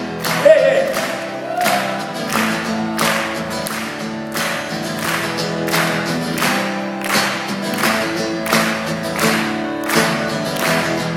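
Guitar strummed in a steady rhythm, playing the intro of a live rock song, with a short sung 'yeah' about a second in.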